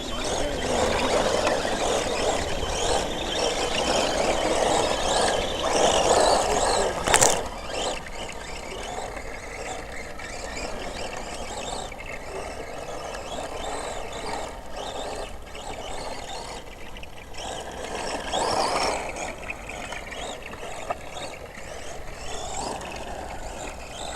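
Radio-controlled truck being driven, its motor whining up and down in pitch over a rough, noisy rush of tyres and ground. The rush is loudest for the first several seconds, and there is a single sharp knock about seven seconds in.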